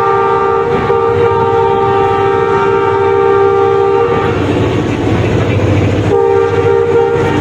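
Train horn sounding a long blast of about four seconds, then a second short blast about two seconds later, over the steady rumble of a passing train.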